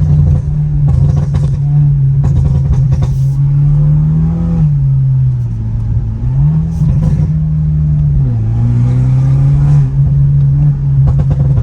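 Straight-piped, Stage 2-tuned BMW F30 328i turbocharged four-cylinder exhaust droning loudly while driving, heard inside the cabin with the windows up. The pitch drops about four seconds in, climbs again around six seconds, and drops once more past eight seconds.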